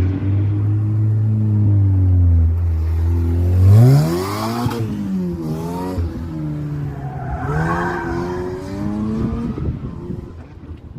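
A high-performance car engine running steadily, then accelerating hard about four seconds in, its pitch climbing and dropping back through gear changes twice before the sound fades near the end.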